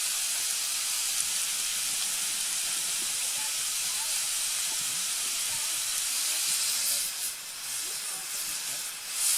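Beef mince sizzling in a frying pan over a campfire: a steady, hissing sizzle that wavers and dips in loudness from about seven seconds in.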